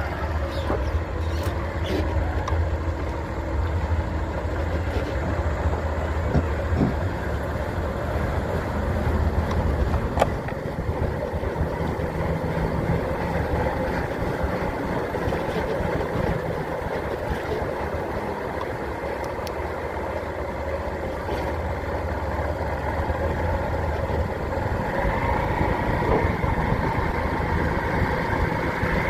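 A vehicle engine running steadily, with a few clicks and knocks.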